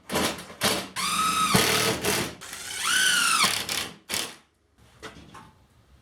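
Power drill run in two short bursts, about a second each, its whine rising in pitch, holding and dropping away, with a few knocks just before.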